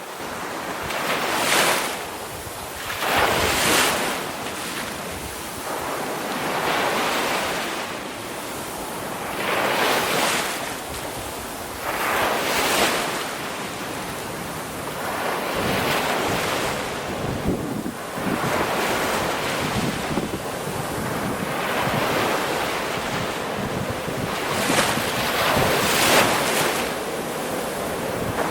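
Ocean waves breaking and washing in, one surge after another every two to three seconds, with some wind.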